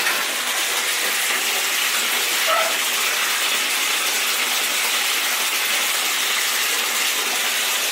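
Bathtub filling from the tap: a steady gush of running water.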